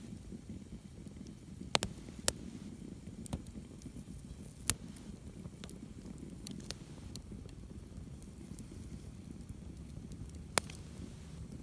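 Driftwood campfire crackling, with sharp pops every second or few over a low, steady rumble.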